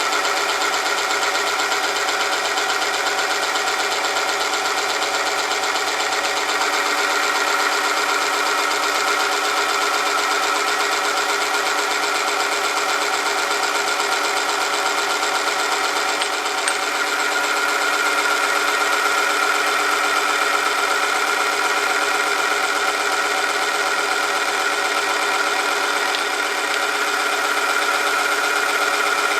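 Oil film strength test machine running, its driven part rubbing on a metal test sample under oil; a loud, steady mechanical whine with a strong high tone that holds throughout.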